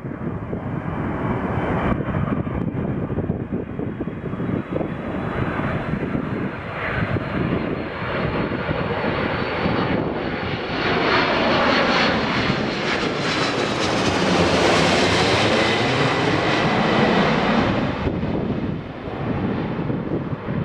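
Airbus A330-300 airliner's jet engines on its landing approach: a steady engine noise with a high whine that grows louder, is loudest from about halfway to near the end as the plane passes, then eases off.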